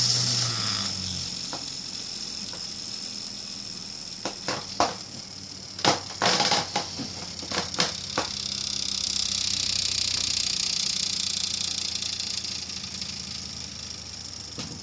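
Small electric motor of a Science Box kit machine whirring as it spins a six-arm fidget spinner. A run of sharp clicks and rattles comes in the middle, then the whir grows louder and eases off again near the end.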